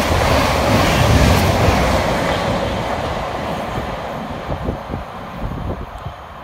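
Thameslink Class 700 Desiro City electric multiple unit passing through at speed, its rumble and wheel noise fading steadily as the last carriages clear and it draws away.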